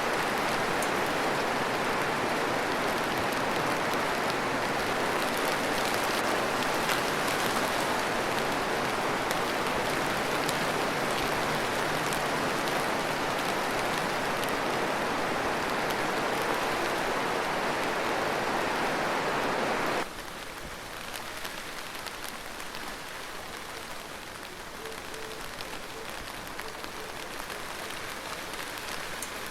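Steady rain falling, with a dense patter of drops. About two-thirds of the way through, it cuts suddenly to a quieter, lighter rain.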